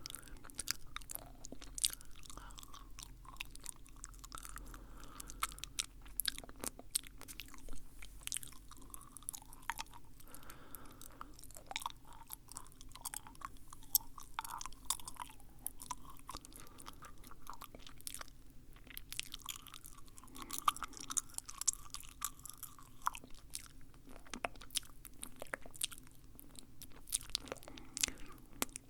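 Close-miked wet mouth sounds: irregular clicks, smacks and crackles from lips and tongue, coming thick and fast without pause.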